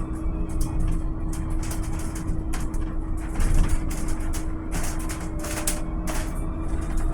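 Volvo BZL electric bus running: a steady hum with a low rumble beneath, and irregular short rattling noises over it.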